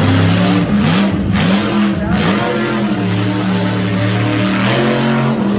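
Monster truck engine revving, its pitch climbing and dropping several times before holding steadier.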